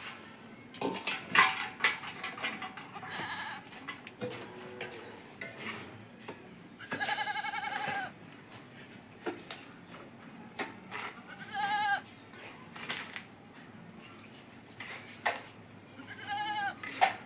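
A goat bleating three times, each call about a second long or shorter with a quavering, wavering pitch. Between the calls come many short sharp clicks and rustles.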